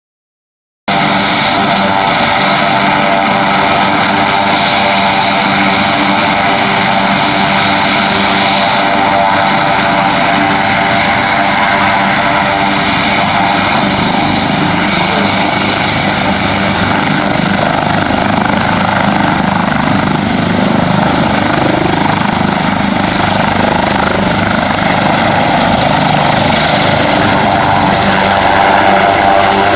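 Medevac helicopter running close by: steady rotor and engine noise with a high turbine whine, cutting in about a second in. Around halfway through the whine rises a little in pitch and holds, as the engines spool up for take-off.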